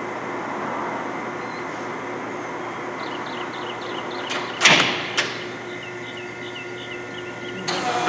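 LeBlond Regal engine lathe (a servo-shift machine) running steadily in its gearhead at one spindle speed, with two sharp clunks about half a second apart midway through, then an abrupt change near the end to a new, higher running tone as it shifts up to the next spindle speed.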